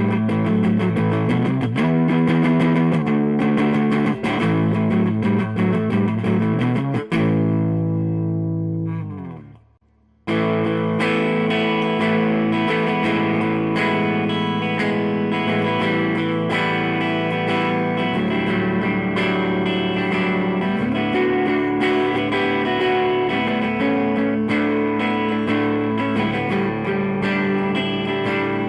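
Electric guitar with Lindy Fralin Broadcaster pickups, neck and bridge together, played through a Fender Blues Deville 212 tube amp with light overdrive: notes and chords. About seven seconds in, a held note fades out while sliding down in pitch. After a moment of near silence, the playing starts again abruptly.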